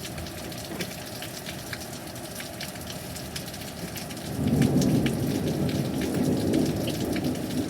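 Heavy thunderstorm rain falling steadily, with a dense patter of drops. About four seconds in, a low rumble of thunder rises and rolls on.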